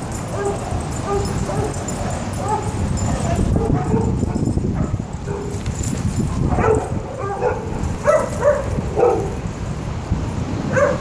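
Dogs vocalising in play: short high whines and yips at first, then a run of louder, sharper barks and yelps in the second half.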